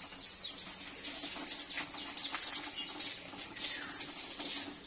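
Birds chirping in the background: short, high calls falling in pitch, coming about one or two a second at irregular intervals.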